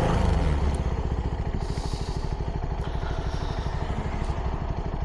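CFMoto 300NK's single-cylinder engine through its stock exhaust, its revs dropping as the throttle closes right at the start. It then runs at low revs with steady, even exhaust pulses.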